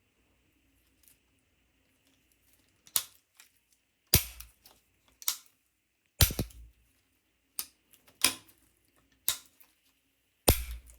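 A series of sharp clicks and knocks, about eight of them, loosely spaced about a second apart and starting about three seconds in, over a faint steady hum.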